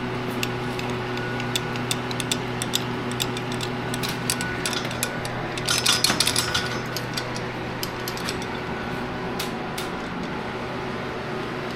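Scattered metallic clicks and clinks of hardware and hand tools being worked, with a short burst of rattling about six seconds in, over a steady low hum.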